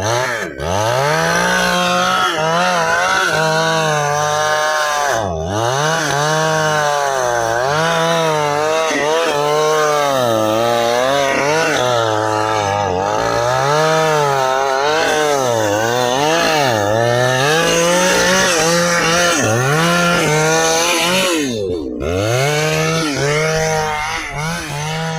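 Stihl two-stroke chainsaw cutting through dry ipê hardwood at full throttle, its engine pitch rising and falling continuously as the chain loads up in the dense wood, with a few brief drops in revs.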